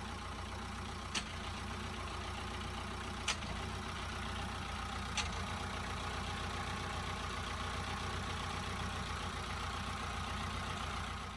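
A steady motor hum with a low drone, with three faint ticks about two seconds apart.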